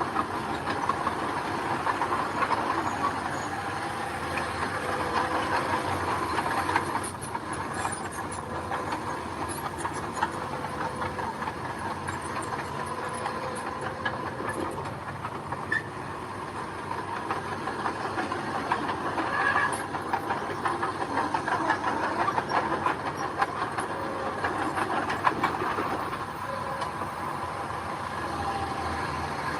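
Bulldozer running, its diesel engine held at a steady note while the steel tracks clatter continuously.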